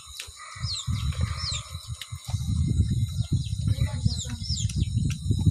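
Birds chirping, short falling chirps about once a second, over a steady high-pitched hum. A loud, irregular low rumble runs underneath from about half a second in.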